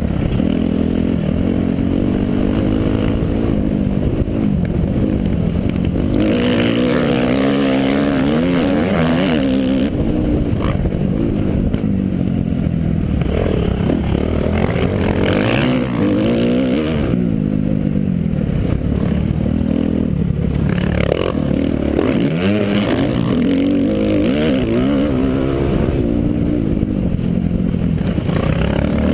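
Motocross bike engine running hard, its pitch climbing and dropping again and again as the throttle is worked through the gears, with bursts of rushing noise in between.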